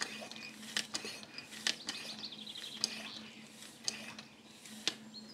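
Sharp clicks roughly once a second from a hand tool being worked, with a songbird giving a quick trill of chirps partway through.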